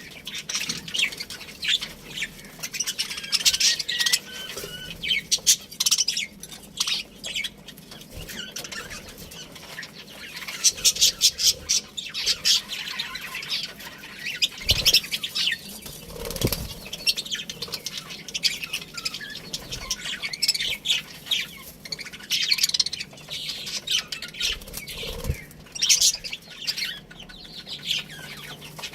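A group of budgerigars chirping and chattering in a cage, many short high chirps overlapping without pause. A couple of low thumps come about halfway through.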